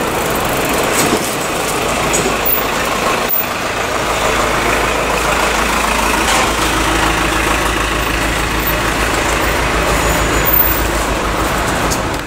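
City street traffic noise with a large vehicle's engine idling close by, a steady low hum under the traffic.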